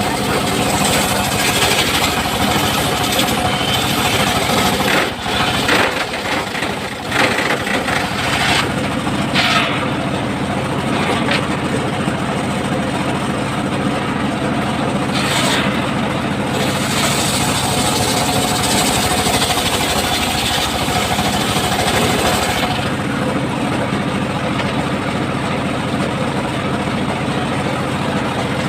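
Circular saw mill running with a steady machine drone. The sound dips and breaks briefly about five to eight seconds in.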